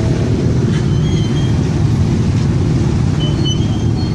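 Steady low rumble of a moving vehicle's engine and road noise, heard while riding along.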